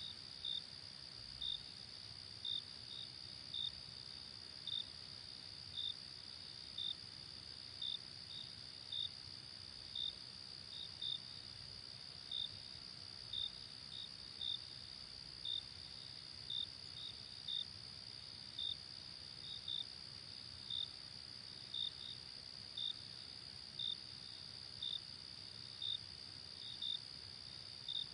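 Crickets at night: a steady high-pitched insect trill, with short cricket chirps over it about once a second, sometimes in pairs.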